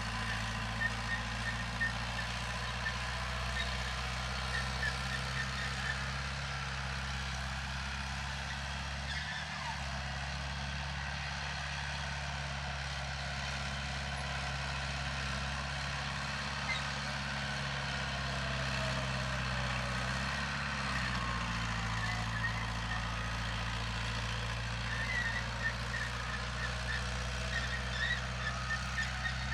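Heavy diesel earthmoving machinery running steadily, its engine note dipping briefly twice, with short high chirps now and then above the engine noise.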